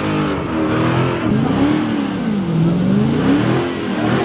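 Car engine revving hard, its pitch swooping up and down several times in a row.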